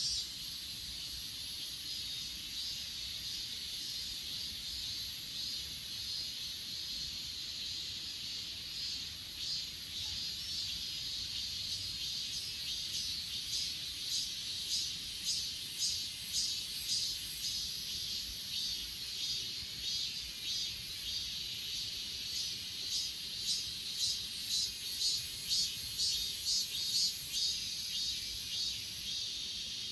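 Night chorus of grass insects such as crickets: a steady high trill, joined from about a third of the way in by a second insect's rhythmic chirping, about two chirps a second.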